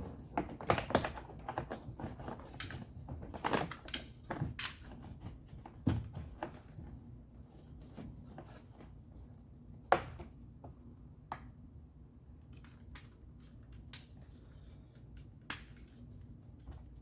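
Irregular clicks, taps and knocks of hand work on a truck's interior door panel and its fixing screws, with a few sharper knocks about a second, three and a half, six and ten seconds in.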